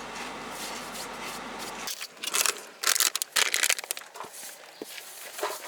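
Steady rushing background noise that cuts off abruptly about two seconds in, followed by plastic food packaging being crinkled and torn open in irregular crackling spells.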